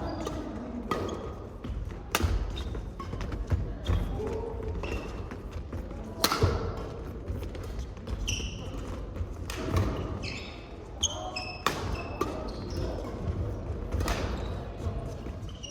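Badminton doubles rally in a gym hall: sharp, irregular racket strikes on the shuttlecock and thuds on the court, with short shoe squeaks on the floor partway through and voices in the background.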